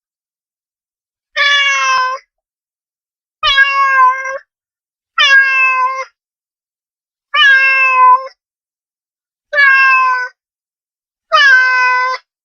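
Domestic cat meowing six times, each meow just under a second long at a fairly even pitch, about two seconds apart with silence between.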